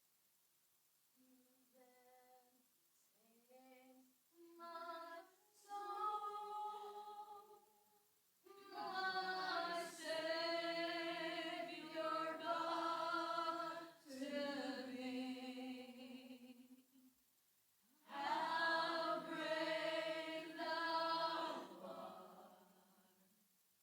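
Women's voices singing a worship song together without accompaniment in long held phrases. The singing starts faint and swells to full volume after about eight seconds, breaks briefly, rises again, and fades near the end.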